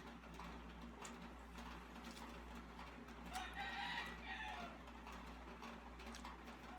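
A chicken calls once in the background for about a second midway, over a steady low hum and faint scattered ticks.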